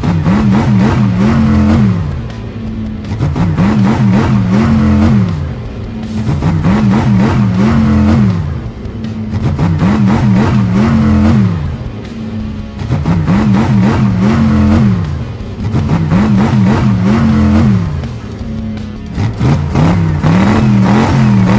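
Cartoon monster truck engines revving: the pitch climbs, wavers and drops off, and the cycle repeats about every four seconds, with music underneath.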